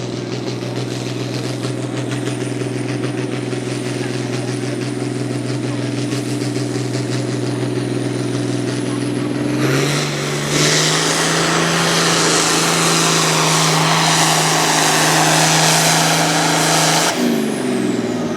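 Truck or tractor pulling engine running flat out down the track with a steady, high engine note. About ten seconds in, the pitch steps up and a loud rushing noise joins it. Near the end the throttle is cut: the rush stops suddenly and the engine note falls away as it winds down.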